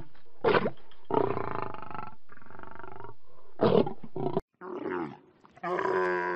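A lion roaring in a series of loud, deep calls that cut off abruptly about four seconds in. Near the end a dromedary camel starts a long, grumbling, gurgling call.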